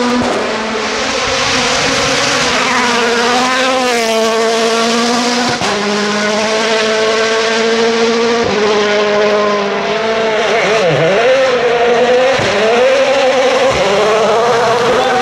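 A 2017 World Rally Car's turbocharged four-cylinder engine run hard through gear changes, its pitch holding, dropping and climbing again several times as it brakes and accelerates.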